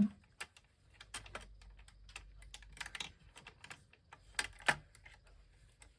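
Irregular light clicks and knocks of small metal parts being handled, with two sharper knocks about four and a half seconds in, as a stuck tone arm of a record player is worked at to free it from its mount.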